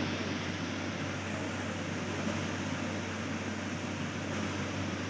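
A machine running steadily: an even whirring hiss over a constant low hum, with no changes or separate knocks.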